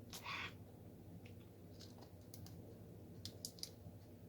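Faint small clicks and taps of a diamond painting drill pen picking up resin drills and pressing them onto the canvas, with a short rustle just after the start.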